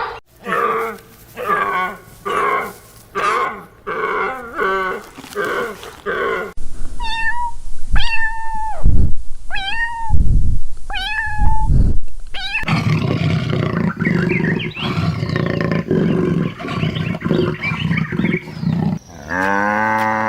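A series of different animal calls edited back to back. First comes a run of short calls about twice a second, then a few sharp, rising-then-falling calls over heavy low thuds. A dense stretch of overlapping calls follows, and it ends on one drawn-out call that slides down in pitch.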